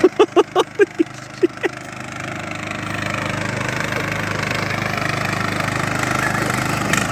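Small Briggs & Stratton engine of a Craftsman riding lawnmower running steadily, getting louder from about two seconds in. In the first two seconds there are about seven short, sharp hits in quick succession.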